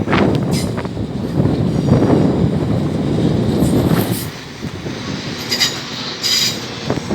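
A Class 450 Desiro electric multiple unit running past with a steady rumble of wheels on rails, and a few short, high wheel squeals.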